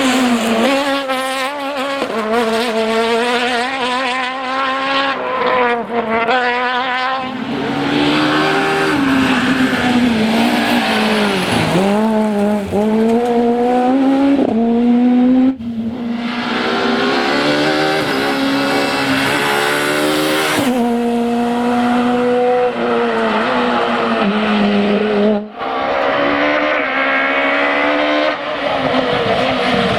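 Peugeot 206 Maxi rally car's high-revving engine at full throttle, climbing through the revs again and again with quick gear changes and lifts between. The sound breaks off abruptly twice, about halfway through and again a few seconds from the end, where one clip cuts to the next.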